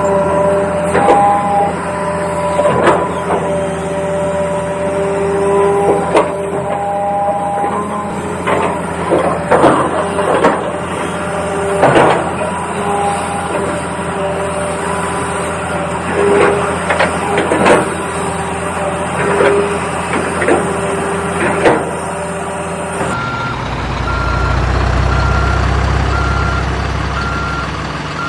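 Toy RC excavator's electronic sound effects: a synthetic engine hum whose tones switch on and off, with many sharp plastic clicks and clatters. After a cut about four-fifths of the way in, a low engine rumble with a short reversing beep repeating about once a second.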